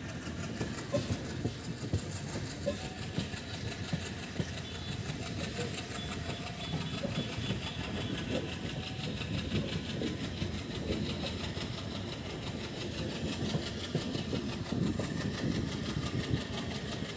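Passenger train running, its wheels clattering steadily over the rail joints, heard from an open window or doorway of a coach.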